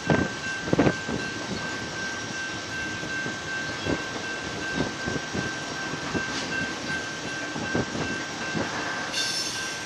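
Freight train's flatcars loaded with highway trailers rolling slowly by on an uphill grade. Steel wheels knock over rail joints at uneven intervals over a steady rolling rumble, with a thin steady high whine.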